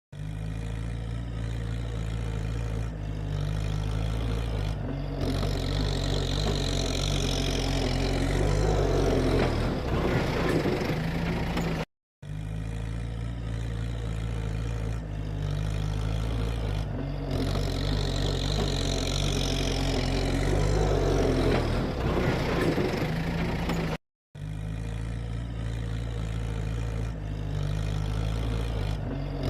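Kubota tractor's diesel engine running steadily, swelling louder and harsher partway through as if under load. The same twelve-second stretch plays three times, broken by brief silent gaps about 12 and 24 seconds in.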